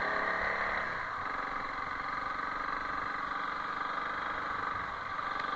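Honda CRF300L Rally's single-cylinder engine running at low speed on a dirt trail. The engine note eases off about a second in, then runs steadily.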